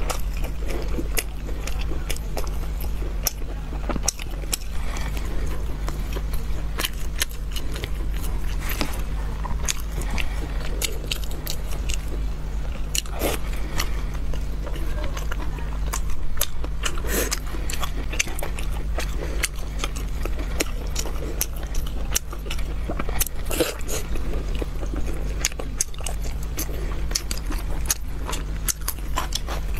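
Close-miked chewing and biting of braised pork belly, with many short sharp mouth clicks throughout. A steady low hum runs underneath.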